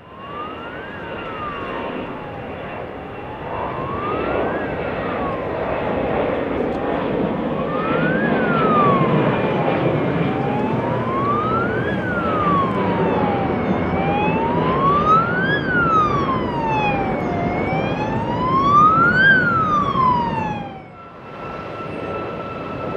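An emergency vehicle's siren wailing, its pitch slowly rising and falling about every three and a half seconds and growing louder toward the end, over a steady background rumble. It cuts off suddenly about 21 seconds in.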